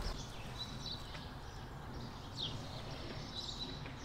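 Outdoor ambience with a steady low background rumble and birds chirping, several short high calls spread through it.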